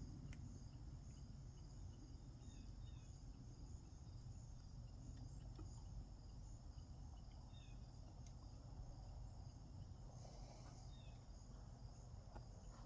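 Near silence: room tone with a steady low hum and a faint, steady high-pitched whine, broken by a few faint ticks.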